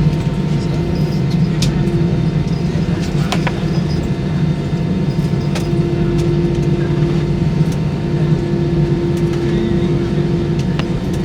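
Steady cabin noise inside an Airbus A320 on the ground after landing: a constant low hum with a droning tone that fades in and out, and a few faint clicks.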